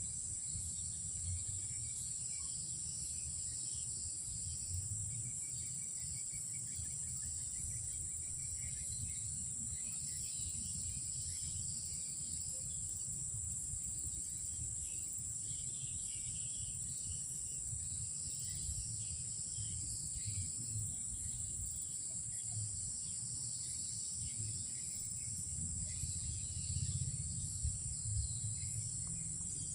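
Night insects, crickets or cicadas, keeping up a continuous high-pitched drone, with a short run of rapid chirps about six seconds in over a low rumble.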